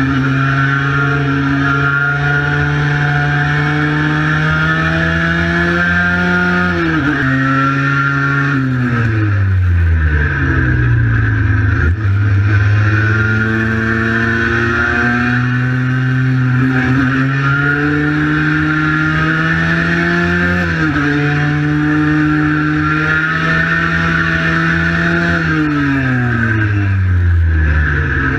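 Cagiva Mito 125 single-cylinder two-stroke engine under way: it holds steady revs, then the revs fall away in a long glide as the throttle closes, twice, climbing again after each.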